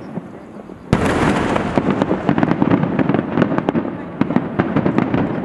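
A large aerial firework shell bursting with one sharp boom about a second in, followed by dense crackling.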